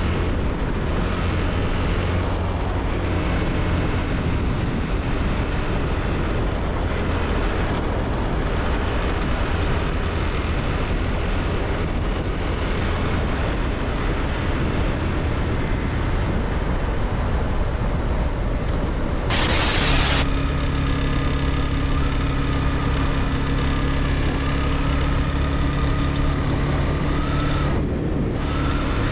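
Honda CBR300R's single-cylinder engine running steadily with the motorcycle under way. About two-thirds through, a loud hiss lasts about a second, after which the engine holds a steady, even note.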